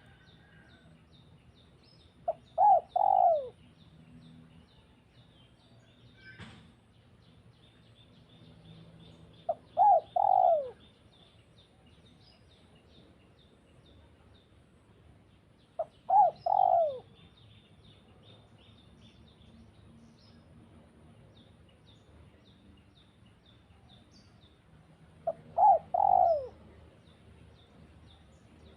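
A dove cooing, a short call of two or three falling notes repeated four times, about every seven seconds. Faint high chirping of small birds continues underneath.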